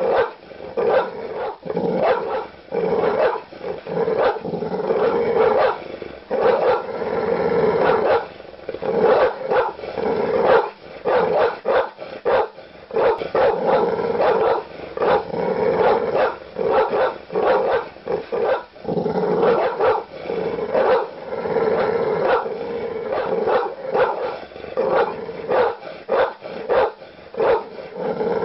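Large dogs barking aggressively in rapid, loud barks that follow one another with hardly a break.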